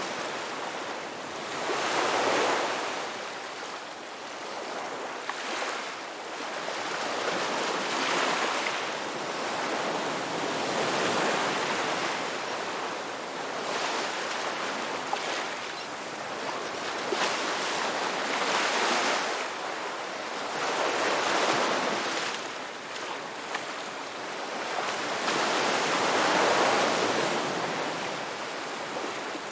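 Ocean surf on a beach: waves breaking and washing up the shore, the hiss of the water swelling louder every few seconds and then fading.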